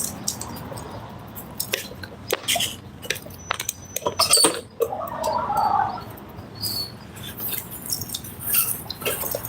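Irregular metallic clicks and rattles of a bike lock being put on a bicycle.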